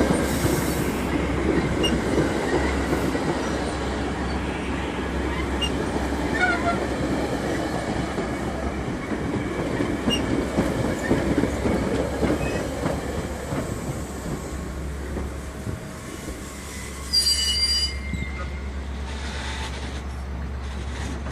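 Metra commuter train rolling slowly into the station, its cars rumbling and clattering over the rails with light wheel squeals. A short, loud, high-pitched squeal comes about 17 seconds in as the train slows.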